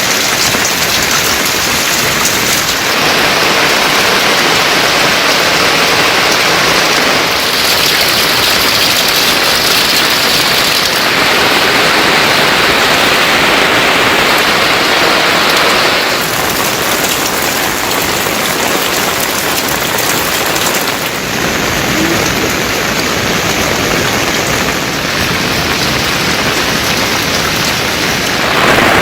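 Heavy monsoon rain falling and pattering on surfaces, a steady hiss that changes character abruptly several times.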